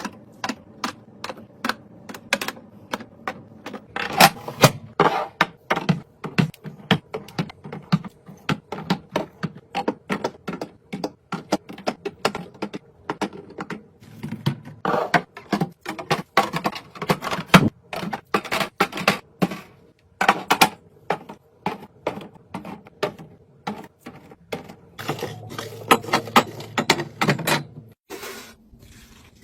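Snack packets and drink containers being handled and set into a mini fridge: a busy, irregular run of light clicks, taps and knocks, with a couple of stretches of rustling.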